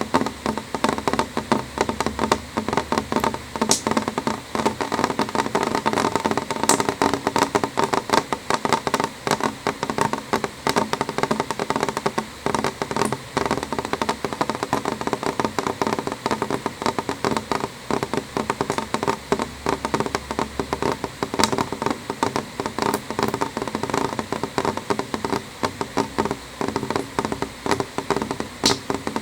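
Rain falling on window glass: a steady, dense tapping of drops, with a few sharper ticks now and then.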